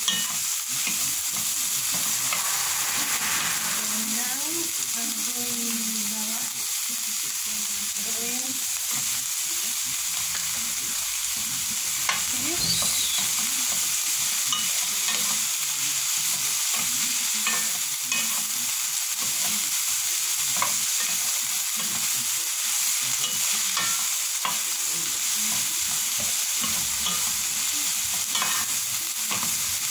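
Sliced vegetables sizzling steadily in hot oil in a nonstick frying pan as they are stir-fried, with a wooden spatula scraping and tapping against the pan in scattered short clicks.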